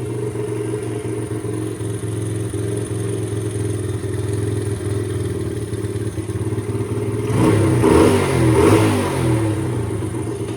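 Chinese pit bike's small single-cylinder engine running steadily, then revved up and let back down about seven seconds in.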